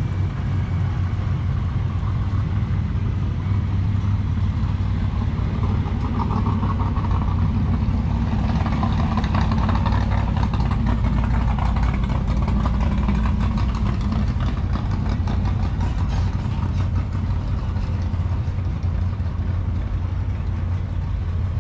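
A vehicle engine idling with a steady low drone, the noise thickening for several seconds in the middle.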